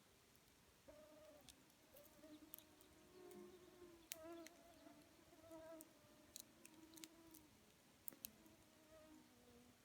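Campfire burning quietly: sparse sharp crackles and pops of burning wood, over a faint wavering hum.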